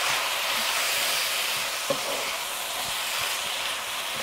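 Ground pork and shredded cabbage and carrot frying in an electric wok: a steady sizzle, with a few light knocks and scrapes of a wooden spatula stirring the filling.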